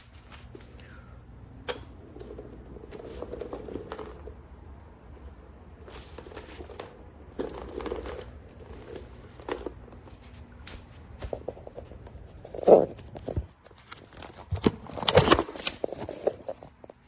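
A folding hand truck and its cart bag being handled: scattered clicks and rustling, with two louder knocks in the last third.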